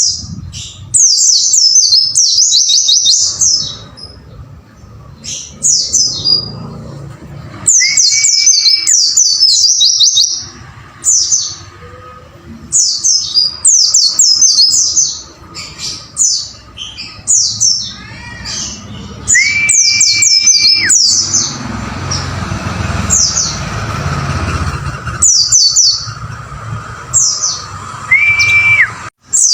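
White-eye (pleci) song: rapid, repeated runs of sharp high chirps, with a short steady whistled note three times, lower in pitch.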